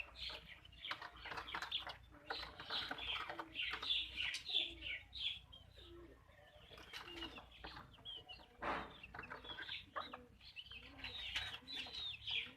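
Backyard chickens calling: many short, high, wavering chirps and clucks overlapping, thinning out briefly about halfway through, with a short noisy rustle around two-thirds of the way in.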